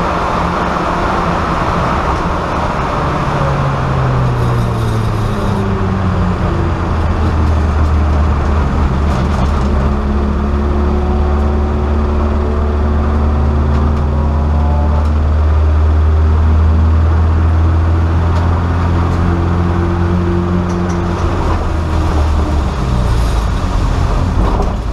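VW Golf race car's engine heard from inside its stripped cabin. The revs drop over the first few seconds, then hold fairly steady, and drop again near the end, over a steady road noise.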